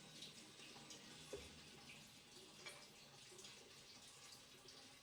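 Near silence: faint room tone with a few soft, small clicks.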